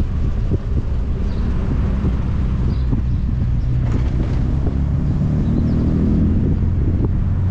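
Classic Triumph's engine running as the car drives along, with wind noise on the microphone. The engine note rises for a moment about five to six seconds in.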